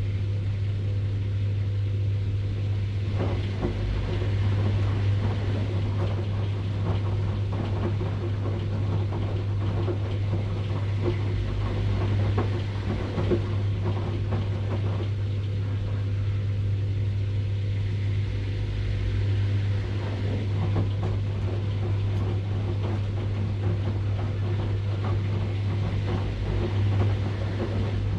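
Washing machine running: a steady low hum with a rough churning noise above it, the churning thinning out for a few seconds near the start and again about halfway through.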